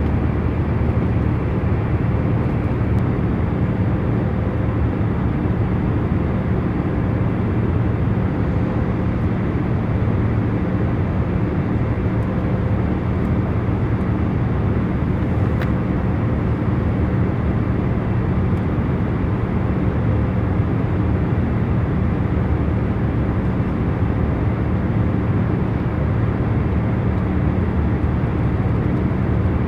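Airliner cabin in cruise flight: a steady, even rush of engine and airflow noise with a low hum underneath.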